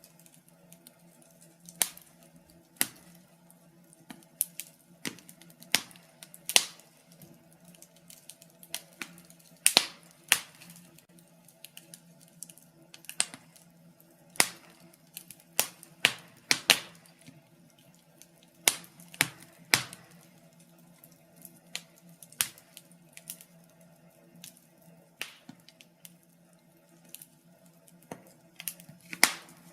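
Wood fire crackling in a fireplace: irregular sharp pops and snaps, about one or two a second, some louder than others, over a faint steady hum.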